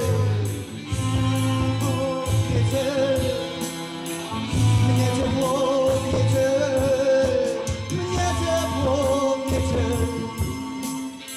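Rock band playing live: drums with a steady cymbal beat, a bass line, and a wavering lead melody over them.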